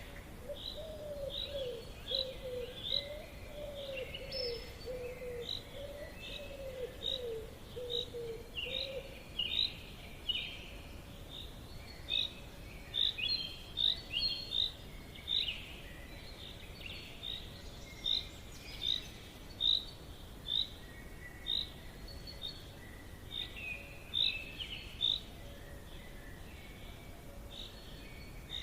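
Forest birds chirping: a long series of short, high chirps about once a second, with a lower wavering call of many quick notes during the first nine seconds or so, over a faint steady background hiss.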